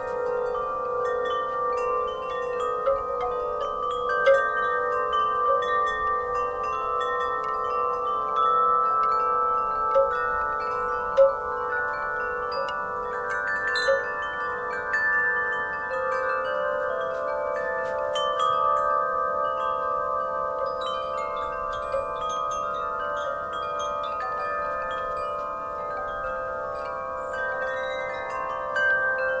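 Wind chimes ringing in the breeze: many overlapping sustained metallic tones, struck at irregular moments, with a few sharper strikes standing out.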